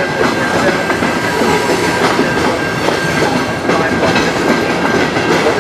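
Freight train of covered hopper cars rolling steadily past, wheels clacking over rail joints in a continuous rumble, with a thin steady high squeal from the wheels running through it.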